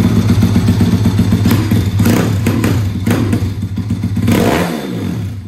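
Motorcycle engines running steadily, with several short sharp revs in the middle and a sharp drop in engine pitch about four and a half seconds in.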